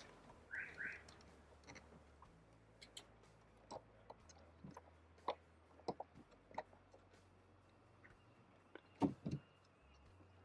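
Faint scattered clicks and light knocks of a rowboat's adjustable footstop being set in its notches and tightened, with two brief squeaks about half a second in and two louder knocks about nine seconds in.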